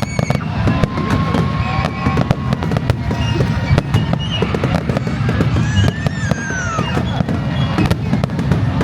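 Fireworks display going off in quick succession: a steady barrage of booms over a deep rumble, with dense crackling.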